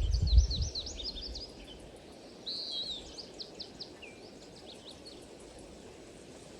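Songbirds chirping in quick high notes, busiest in the first half, with one slurred call about two and a half seconds in, over a steady hiss. A brief low rumble at the very start is the loudest sound.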